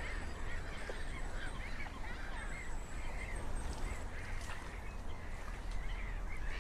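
Birds calling again and again in short chirps, over a steady low rumble of wind on the microphone.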